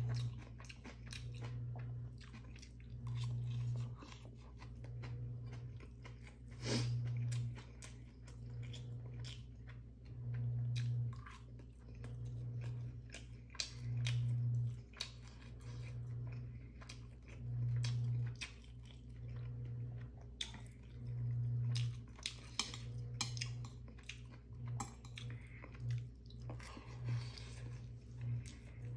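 A person chewing food close to the microphone, with many small wet mouth clicks and crunches. A low hum swells and fades every few seconds underneath.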